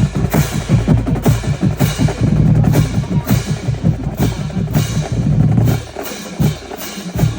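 Marching band drumline playing a cadence: fast snare strokes over heavy bass drum hits, with a couple of short breaks near the end.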